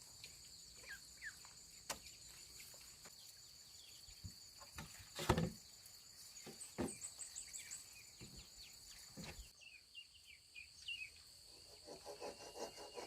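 Steady high chirring of insects, with scattered short bird chirps and a few sharp knocks, the loudest about five seconds in.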